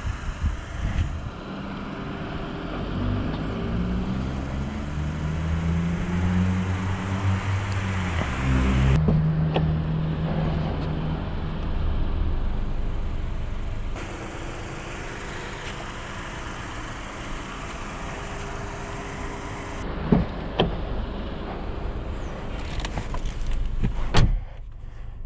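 Volkswagen T-Cross 200 TSI engine running, its pitch climbing in steps over several seconds, then settling to a quieter steady sound. Several sharp knocks near the end, from door and cabin handling.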